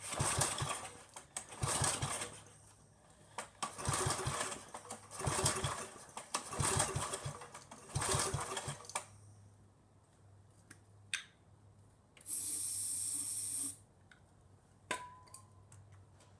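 Small gasoline engine on a homemade go-kart being pull-started six times, each pull a rattling burst of about a second, without the engine catching. Then come a few clicks and a steady hiss lasting about a second and a half.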